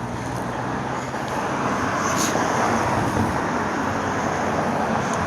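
Road traffic noise: a passing car's tyre and engine noise swelling about a second in and then holding steady.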